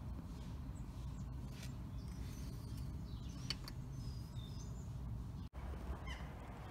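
Small birds chirping now and then over a low, steady outdoor rumble. The sound breaks off for an instant about five and a half seconds in.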